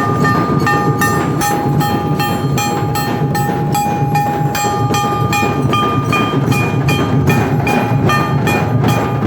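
Dhol-tasha drum troupe playing a steady, driving rhythm, with even drum strokes about two to three a second and a sustained metallic ringing over them.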